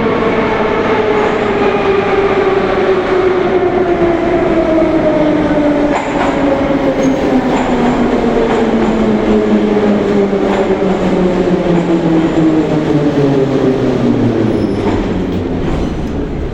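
Moscow metro 81-717/714 "Номерной" train's traction motors whining as it brakes, the whine falling steadily in pitch for about fourteen seconds over the rumble of the wheels, then dying away near the end as the train slows to a stop.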